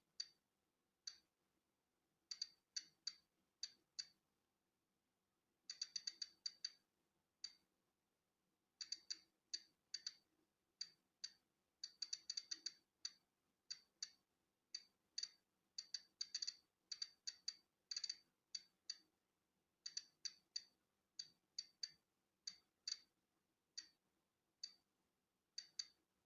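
Polon EKO-C digital Geiger counter clicking as it counts natural background radiation: short, high-pitched clicks at random, uneven intervals, some bunched in quick runs and others a second or more apart.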